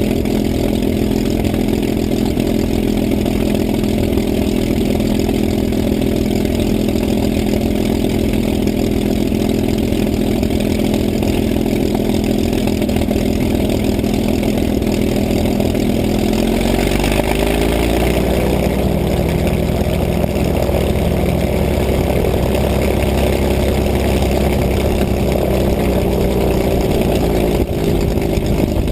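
P-51 Mustang's V12 piston engine running at a steady low speed. A little over halfway through, its pitch rises as it is opened up, and it then holds at the higher speed.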